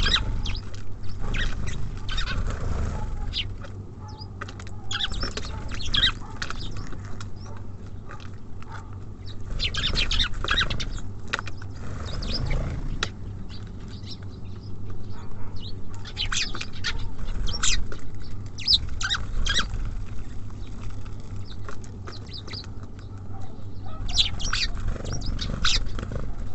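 Small songbirds at a feeder, such as tits and sparrows, giving short high chirps in scattered clusters, over a steady low rumble.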